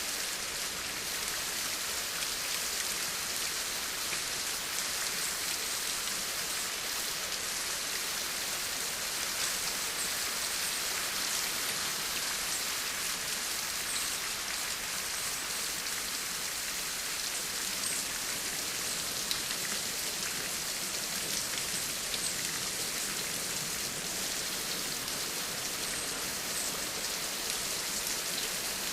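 Steady rain falling, an even hiss of many drops with the odd sharper drop tick standing out.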